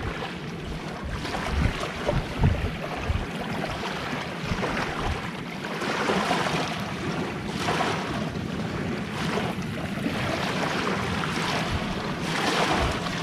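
Sea waves washing onto the shore, swelling and easing several times, with wind rumbling on the microphone.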